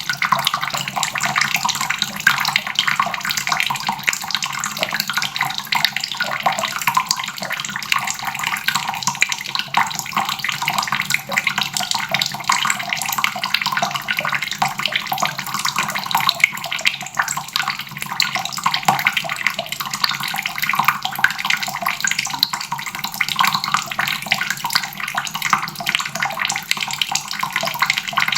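Water running steadily from a faucet: an even, unbroken splashing rush of water falling into a basin.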